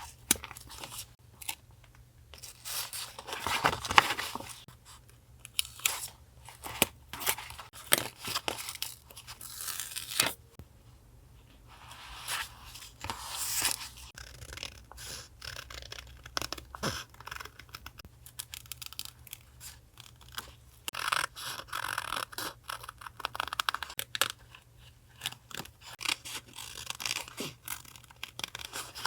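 Paper being handled for collage journaling: torn, snipped with scissors and rustled, with many small clicks and taps in between.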